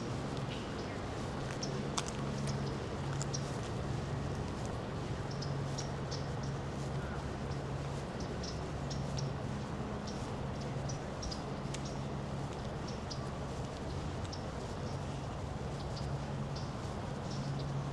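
Outdoor ambience with a low hum that comes and goes, and many short, high ticks or chirps scattered throughout.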